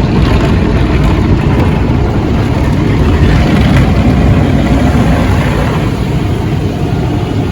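Automatic car wash rinse: water spraying over a truck's body, heard from inside the cab as a loud, steady rush.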